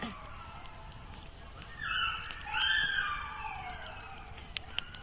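Campfire crackling with scattered sharp pops. In the middle a louder, wavering high-pitched call sounds for about a second and a half.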